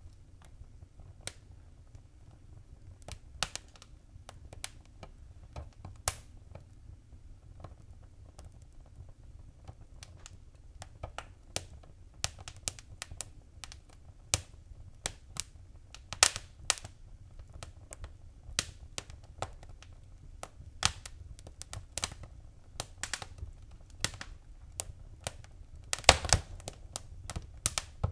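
Wood fire crackling in a fireplace: irregular sharp pops and snaps over a faint low rumble. The pops come more often in the second half, with a quick run of them near the end.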